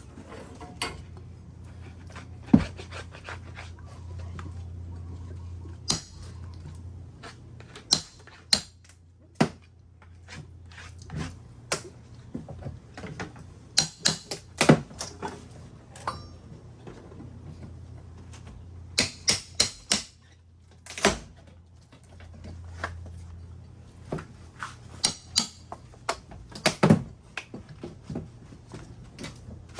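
Irregular sharp knocks and clicks of hand tools prying and tearing siding panels off a wall, coming in scattered clusters, over a low steady hum.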